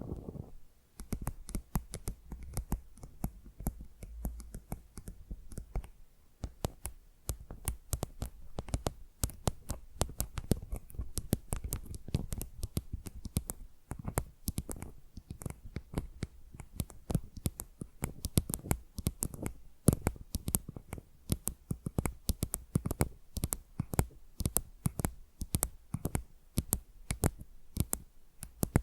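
Fingernails tapping and scratching on a tile, close to the microphone: quick, irregular sharp clicks, several a second.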